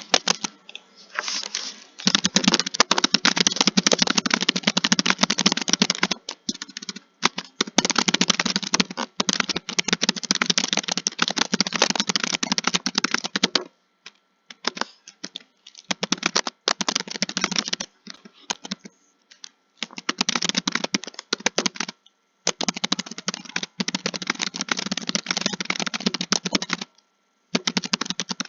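Computer keyboard being typed on in fast, dense runs of keystrokes lasting several seconds each, broken by brief pauses.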